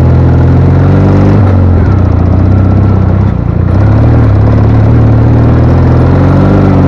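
Ural motorcycle's 750 cc flat-twin engine running loudly under way. The engine note drops about a second and a half in, then climbs back up around four seconds in and holds.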